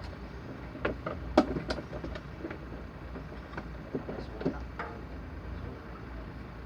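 Hand tools clinking and knocking on metal parts during repair work on an excavator: about eight sharp, irregular strikes, the loudest about a second and a half in, over a steady low rumble.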